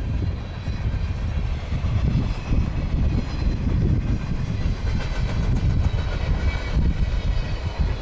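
Train rolling past at close range: a steady low rumble of railcar wheels on the rails.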